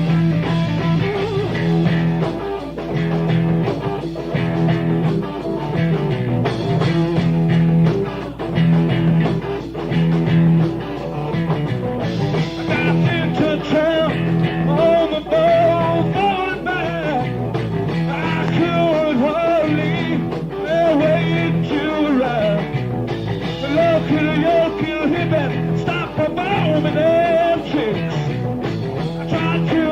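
Live rock band playing a blues-rock number, with electric guitar, bass and drums. About twelve seconds in, a wavering lead line comes in on top.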